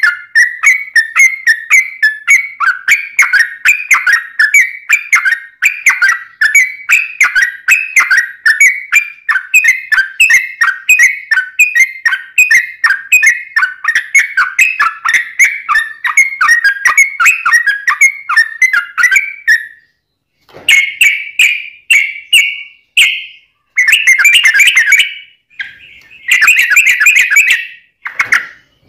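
Yellow-vented bulbul singing a long, rapid run of bubbly, whistled notes, about two to three a second, without a break for some twenty seconds. Near the end the song breaks into short phrases with brief pauses between them.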